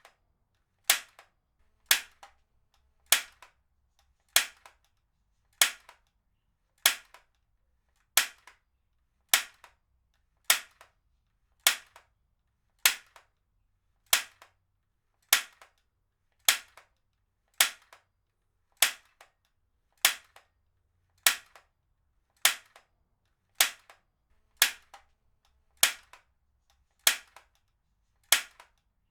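Heavy duty stapler fired again and again at a steady pace, about four sharp snaps every five seconds, each followed by a fainter small click.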